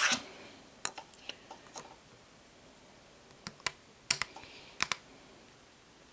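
Hard plastic parts of an action figure clicking and tapping against each other as they are fitted back into place: a brief rustle at the start, then a dozen or so sharp, irregular clicks, several in quick pairs.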